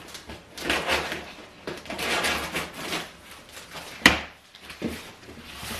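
Cardboard furniture box and packaging being handled: repeated scraping and rustling swishes, with one sharp knock just after four seconds in and a softer knock about a second later.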